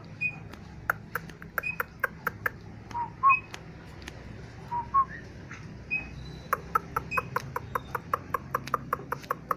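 Lineated barbet (bultok) calling actively: short whistled notes mixed with runs of sharp clicks at about four a second, the longer run starting about two-thirds of the way in.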